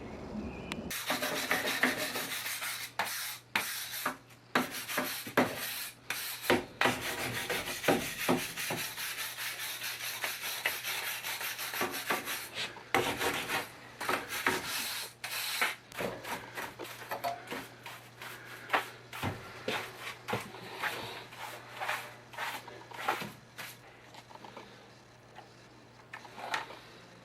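Irregular scraping strokes on a hard, rough surface, dense at first and sparser later, over a faint steady low hum.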